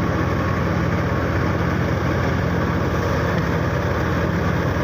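Tractor engine running steadily while driving a wheat thresher, the two making one constant drone.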